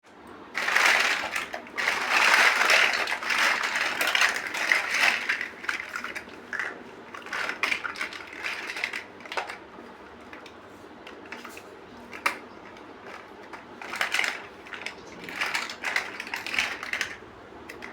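Plastic building bricks rattling and clicking as they are handled and stirred. There is a dense clatter for the first few seconds, then scattered clicks, and the clatter picks up again near the end.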